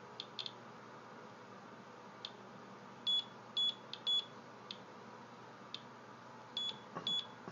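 Inspector Geiger counter clicking now and then as it registers individual counts, and sounding two sets of three short high beeps, about three seconds in and again near the end, as its ten-minute timed count finishes.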